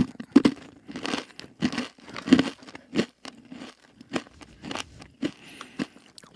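Close-miked chewing of crunchy granola clusters with dried berries, a quick, fairly regular run of crunches about three a second. A crinkly packet rustles in the hand near the end.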